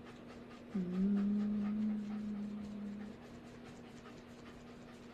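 A long, low hum that slides up briefly at its start, then holds one steady note for about two seconds, over a faint steady drone.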